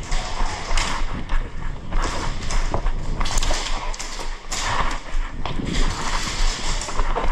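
Irregular thumps and taps, like a player's footsteps and gear knocking while moving.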